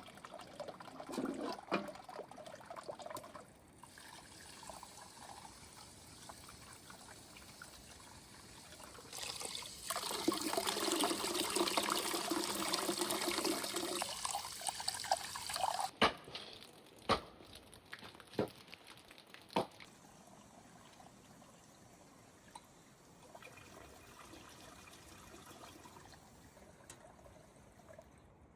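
Water pouring steadily for about six seconds, starting about ten seconds in, with fainter trickling and handling around it. Four sharp knocks follow, about a second apart.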